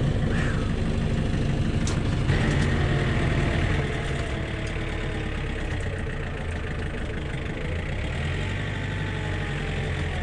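Old John Deere tractor's diesel engine idling just after a glow-plug cold start in freezing weather. It runs a little harder for the first few seconds, then settles to a steady idle.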